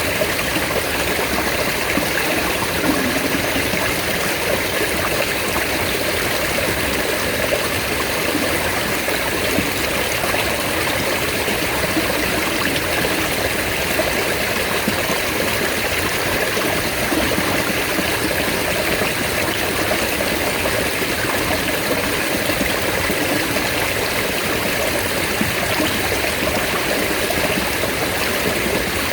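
Mountain stream water running steadily, a continuous, even rush of flowing water.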